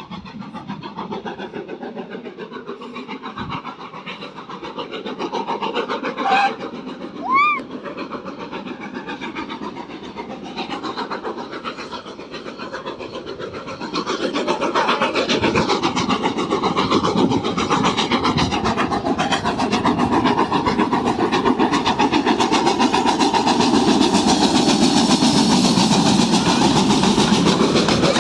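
A steam train passing close by: two short whistle blasts about a second apart, then from about halfway through the louder rumble of the passing carriages, their wheels clicking over the rail joints.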